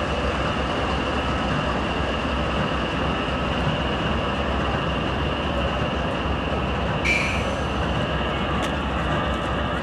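Circus train rolling slowly along the track, a steady rumble with a thin, high wheel squeal that grows louder for a moment about seven seconds in.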